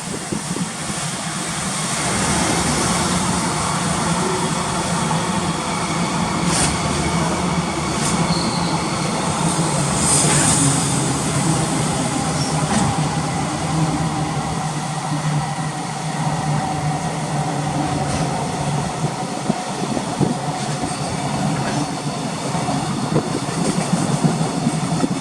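Freight train running past on the rails: a steady, loud rumble of wheels on track that builds over the first two seconds, then holds, with a few sharp squeals and clanks from the wheels partway through.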